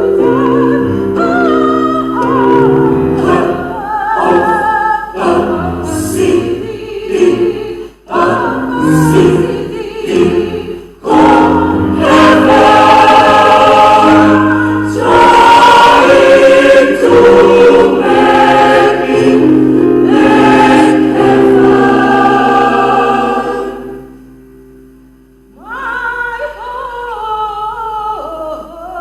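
Small mixed choir singing sustained chords in harmony, building to a loud held passage that breaks off about 24 seconds in, followed by a brief hush and then a softer phrase.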